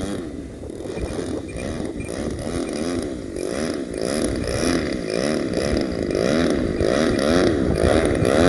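Single-cylinder two-stroke DLE 35 gas engine of a large-scale RC Van's RV-8 running at low throttle. Its pitch wavers up and down over and over, and it grows louder as the plane comes in to land.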